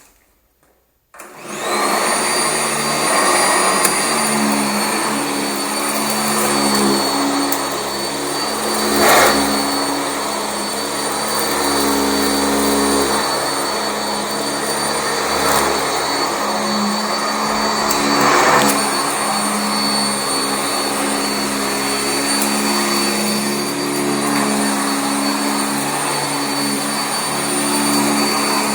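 Sanitaire SC679J commercial upright vacuum switched on about a second in, its motor coming up to a steady high whine and running as it is worked over carpet. A few brief knocks sound along the way.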